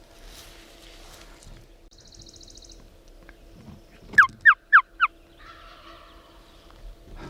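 Wild-turkey yelps: four loud, quick notes about four seconds in, each sliding down in pitch.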